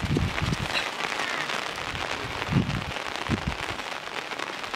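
Steady rain pattering, a dense crackle of fine drops, with a few dull low thumps near the start and twice more past the middle.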